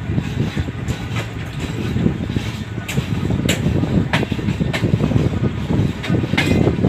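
Passenger train running on the track, heard from on board: a steady low rumble with a run of sharp wheel clicks about every half second midway through.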